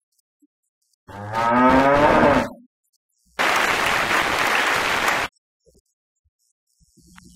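Two edited-in comic sound effects. About a second in comes a drawn-out, low, pitched call lasting about a second and a half. Then comes about two seconds of steady, applause-like noise that starts and stops abruptly.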